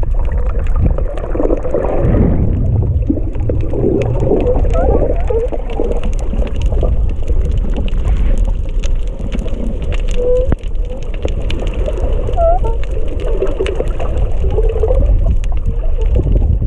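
Underwater sound: a steady low rumble of moving water with many faint clicks, and short chirping glides that come and go throughout. This is the unidentified 'mystery sound'.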